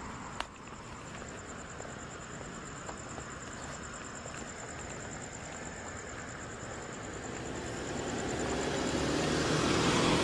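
Street traffic noise, building as a vehicle draws near toward the end, with a steady high-pitched whine throughout and a single click about half a second in.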